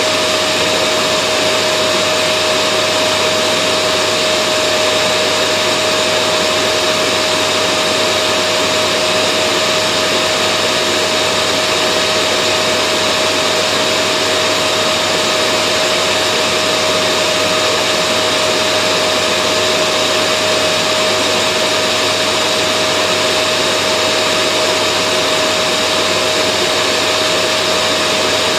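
Vacuum cleaner running steadily: an even rush of air with a constant whine and a fainter high whistle above it, unchanging in pitch and level.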